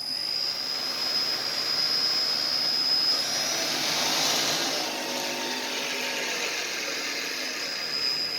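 Millport milling machine running under power, its 3 hp motor and spindle on a Speed-Rite AC variable-speed drive: a steady whir with a thin, high whine that fades about three seconds in and comes back near the end.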